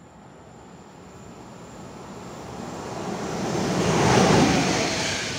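PKP Intercity EU44 electric locomotive hauling a passenger train at speed, approaching and passing. Its wheel and air noise grows steadily louder and peaks about four seconds in as the locomotive goes by.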